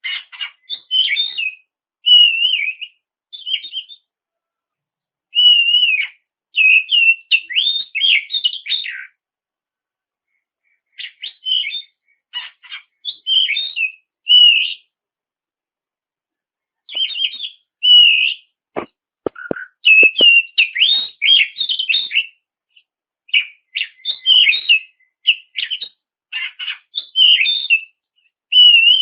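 Oriental magpie-robin (kacer) singing in bursts of quick, varied whistled phrases broken by short pauses. A few soft clicks come about two-thirds of the way through.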